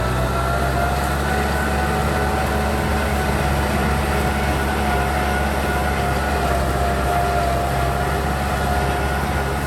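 Kubota M6040 tractor's diesel engine running steadily, a continuous low drone with a thin whine over it that rises a little in the first second and then holds.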